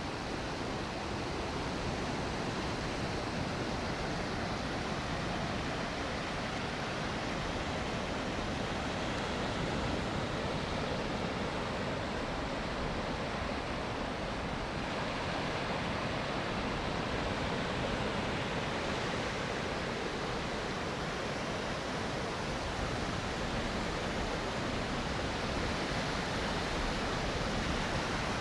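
Gulf surf washing onto a sandy beach: a steady, unbroken rush of waves.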